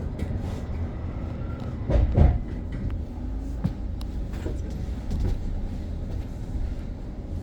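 Interior rumble of a BYD BD11 battery-electric bus on the move, with a louder thump or rattle from the bus about two seconds in and a few smaller knocks after it.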